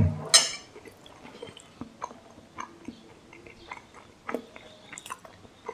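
A man chewing a mouthful of fried instant noodles and fried tofu, picked up close by a clip-on microphone: soft wet chewing with many small mouth clicks and smacks. It opens with a short hum and a sharp click.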